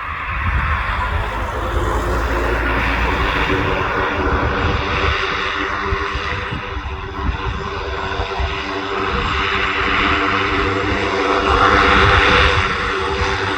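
Aircraft engines running loud and steady, a rushing noise with a steady hum under it, swelling to their loudest about twelve seconds in.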